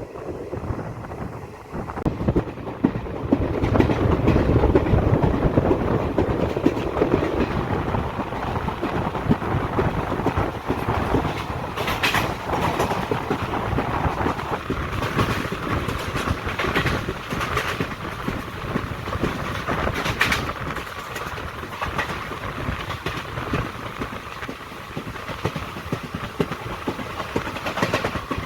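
Indian Railways passenger train in motion, heard from on board: a steady rumble with the clickety-clack of the wheels over the rail joints. It gets louder a few seconds in.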